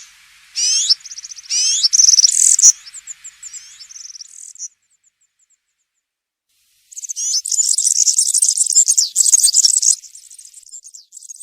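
European serin singing its fast, high-pitched jingling song in the wild 'campero' style: a run of phrases in the first few seconds, a pause of about two seconds, then a denser, louder burst of jingling that fades near the end.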